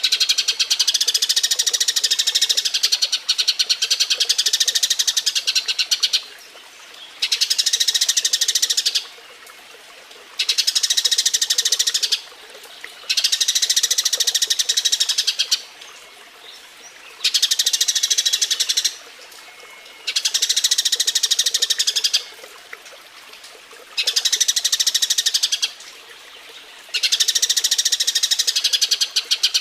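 Eurasian tree sparrow giving mating calls: rapid strings of chirps in bouts of two to six seconds, separated by short pauses.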